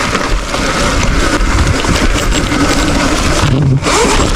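Electric dirt bike ridden hard at a jump and clearing it: a loud, dense, steady rush with a short dip near the end.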